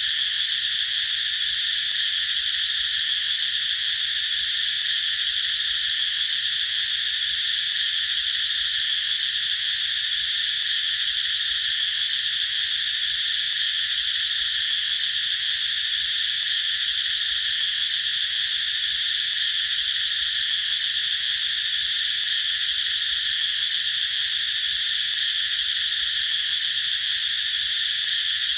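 Cicadas droning in a continuous, steady high-pitched chorus.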